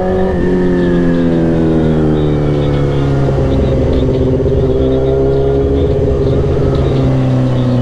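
Sportbike engine running under way, heard from the rider's seat: the note dips briefly about half a second in, as at a gear change, then holds a steady cruising pitch that eases slightly.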